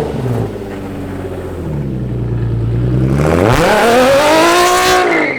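Ford Mustang V8 engine running. It falls from a high note to a low idle, then is revved hard about three seconds in and held at high revs before dropping away abruptly at the end.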